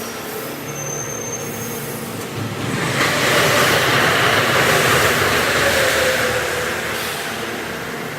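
Subway train running past at a station platform, sped up to double speed: a steady background hum, then a loud rushing noise that swells about two and a half seconds in, with a falling motor whine before it fades.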